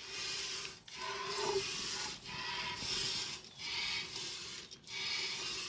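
Heavy rain falling as a steady hiss, broken by brief dips about every second and a half.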